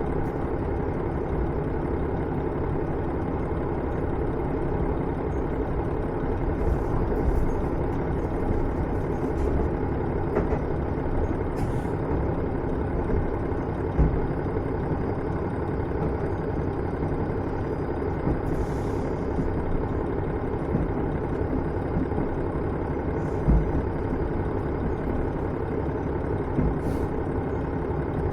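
Steady running sound from inside a KiHa 110 series diesel railcar: the diesel engine and wheel-on-rail noise, with a few brief low thumps, the loudest about halfway through and again near the end.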